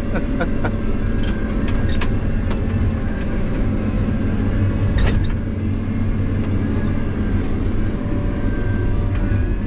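Heavy logging machine's diesel engine running steadily, with a few sharp metallic knocks from the machine as it works.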